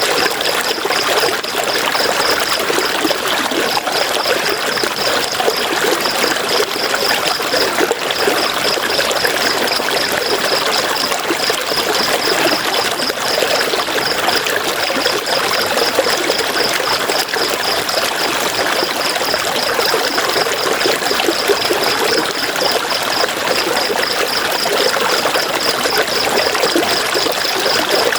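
River flowing steadily, a constant rushing and trickling of water. A high, rapidly pulsing chirp runs over it, several pulses a second, breaking off briefly a few times.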